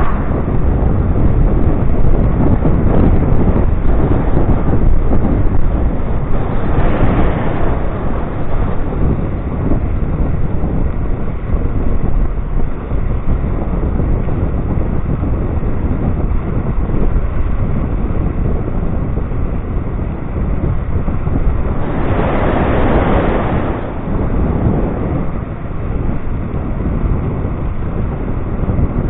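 Wind rushing over the microphone of a rider on a moving electric scooter, a steady rumble with louder gusts about seven seconds in and again around twenty-two seconds in.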